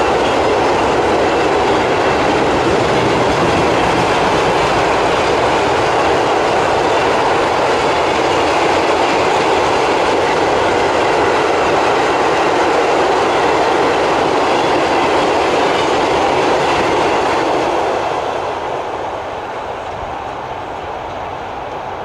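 Freight train wagons rolling past on the rails, a loud, steady noise of wheels on track that drops off near the end as the train passes.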